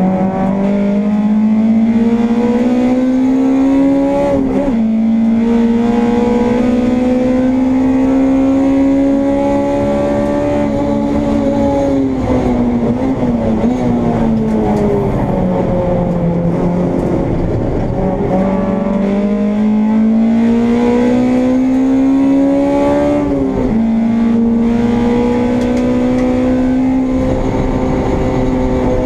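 Honda Integra race car engine heard from onboard, climbing in pitch under hard acceleration with a sharp upshift about four and a half seconds in. Midway the pitch falls for several seconds as the car slows, then climbs again to another upshift near the end.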